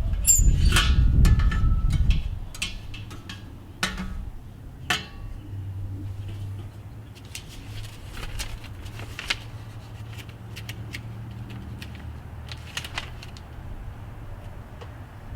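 Metal parts of a Weber kettle grill being handled and fitted during assembly: scattered clinks and knocks over a steady low hum, after a loud low rumble in the first two seconds.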